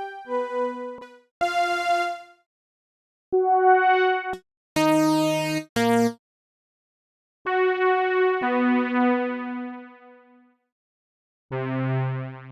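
Synthesizer keyboard music with electric-piano-like notes, played in short phrases that stop into complete silence between them. A low bass note comes in near the end.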